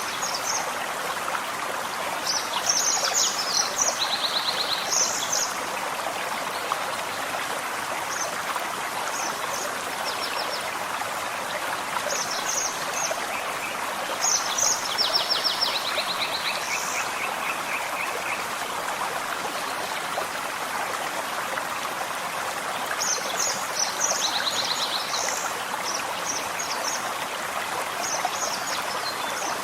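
Gentle forest stream running steadily, with songbirds singing short bursts of chirps and trills over it three times: near the start, in the middle and near the end.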